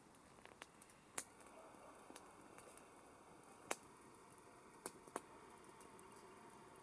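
Campfire crackling softly: irregular sharp pops and snaps of burning wood over a faint steady hiss, with a few louder pops, the strongest about a second in.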